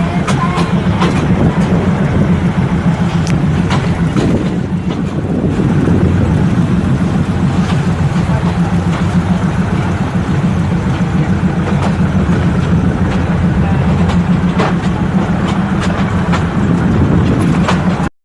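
Steady low rumble of a running vehicle, with scattered clicks and rattles. It cuts off suddenly near the end.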